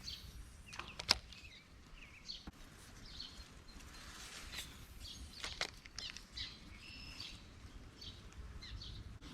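Birds chirping and calling on and off in outdoor background noise, with a sharp click about a second in and a few fainter clicks later.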